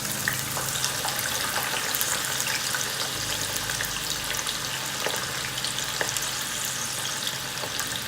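Sweet potato pieces deep frying in hot oil: a steady sizzle with a continuous scatter of small crackling pops.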